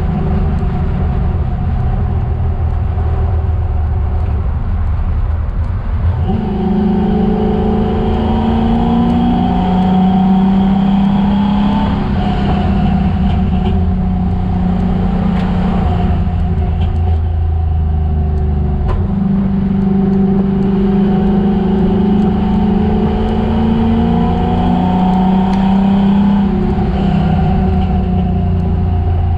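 Chevrolet Chevelle's engine under hard track driving: its note climbs steadily in pitch as the car accelerates, then drops back several times as the driver lifts or shifts.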